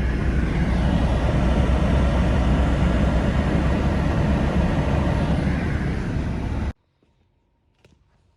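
Pickup truck running, a loud steady engine and road rumble that cuts off abruptly near the end, leaving a few faint taps.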